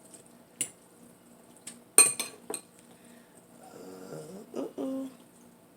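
Eating utensils clinking and scraping against a dish in a few sharp clicks, the loudest about two seconds in, followed by faint chewing and mouth sounds.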